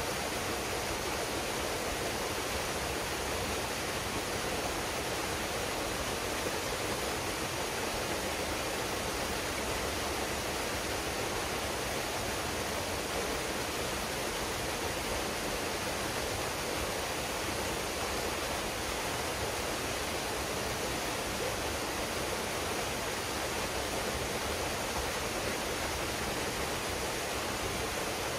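Waterfall pouring steadily into a pool: a constant, even rush of falling water with no breaks.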